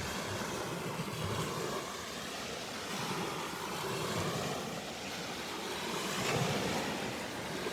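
Steady rushing outdoor noise, swelling slightly about six seconds in.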